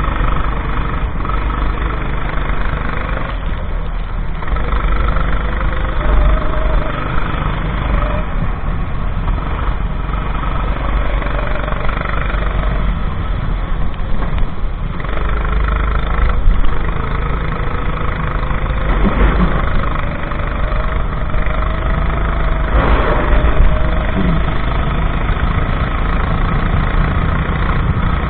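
Racing kart engine running at speed under a heavy low rumble. Its pitch climbs and drops repeatedly, with a long rise in the second half.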